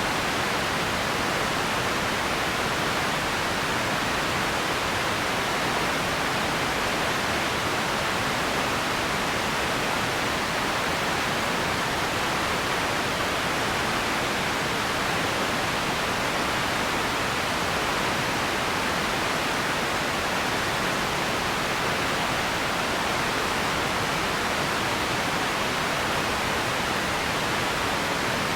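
Empty ambience noise: a steady, featureless hiss that is strongest in the middle range, with no distinct events and an unchanging level.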